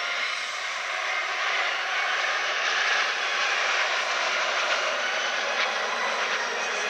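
Jet noise from Alpha Jet trainers of an aerobatic team flying past, their Larzac turbofans making a broad rushing sound that swells to its loudest about three seconds in and then holds.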